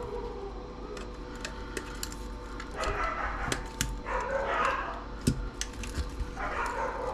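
Dogs left alone and complaining, making three drawn-out whining cries. Sharp clicks come now and then from wire cutters snipping wires.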